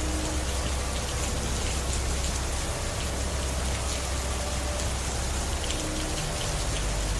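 Steady, even rain falling, a dense patter of drops with a low rumble beneath.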